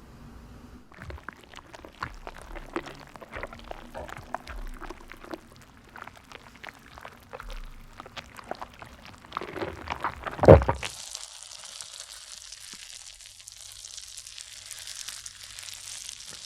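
Wet mouth sound effects of eating: a long run of irregular sticky clicks and smacks, then one loud gulp about ten seconds in, followed by a steady hiss.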